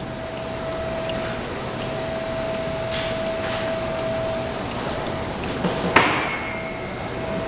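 Steady background hum with a faint constant tone, a few light clicks, and one sharp clank about six seconds in that rings briefly.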